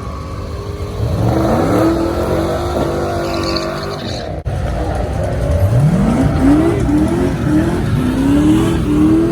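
A car engine under hard acceleration at a drag strip, revs climbing steeply, with a second run of climbs that breaks into several short rises as it shifts up through the gears.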